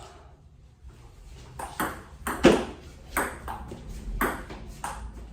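Table tennis rally: the celluloid ball clicking off paddles and the table in a quick run of sharp taps about every half second, starting about a second and a half in, with the loudest hit about halfway.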